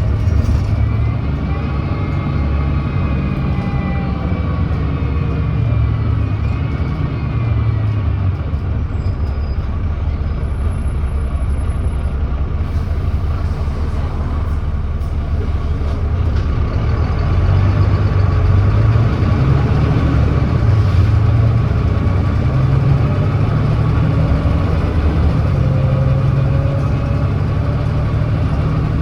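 Volvo D9B 9.3-litre diesel engine of a Volvo B9TL double-decker bus, with a ZF Ecolife six-speed automatic gearbox. It runs steadily, then pulls away hard in kickdown about halfway through, the revs rising and falling through the shifts from first to third. The engine has an exhaust leak.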